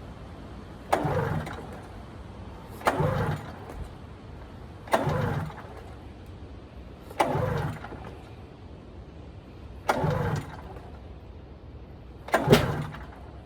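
1996 Arctic Cat ZRT 600 snowmobile's three-cylinder two-stroke engine being pull-started: six recoil pulls about two seconds apart, each a brief cranking whir that winds down without the engine catching.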